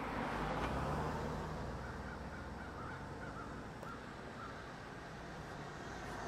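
Outdoor ambience: a steady low hum and hiss, with a few faint bird calls in the middle.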